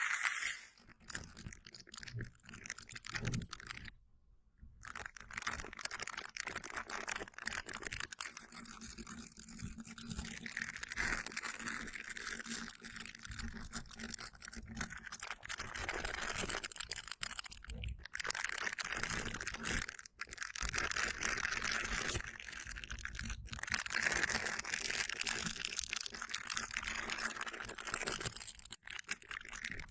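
Slime being wiped and squished close to the microphone, a continuous sticky crackling made of many fine clicks, with a short pause about four seconds in.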